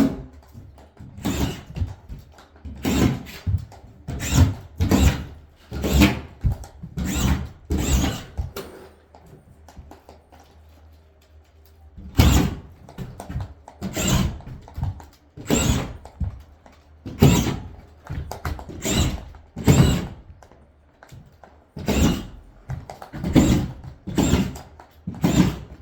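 Series of knocks and thuds on drywall, about one a second, with a pause of a few seconds partway through, as a drywall board is being fastened with screws.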